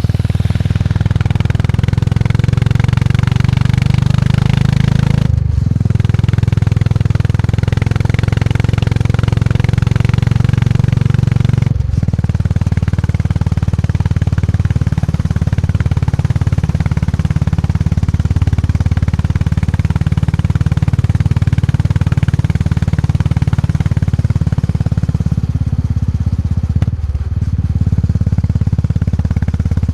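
Classic motorcycle engine running steadily under way, its low thump riding on a mix of higher mechanical noise. The sound briefly drops out three times: about five seconds in, about twelve seconds in, and near the end.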